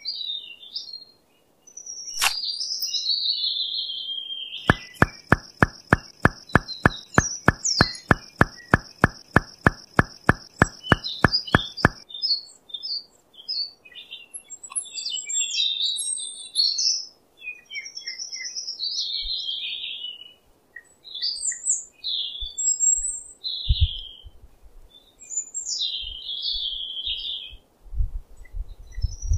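Small birds chirping in short, high calls throughout. From about five to twelve seconds a regular series of sharp clicks, about four a second, runs under the calls along with a steady high whistle, and a few dull low thumps come near the end.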